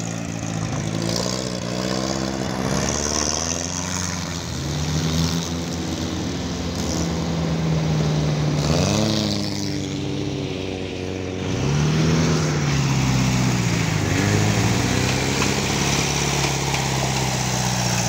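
VW Beetle baja bug's engine revving up and down as the car churns through deep mud, its pitch climbing sharply several times.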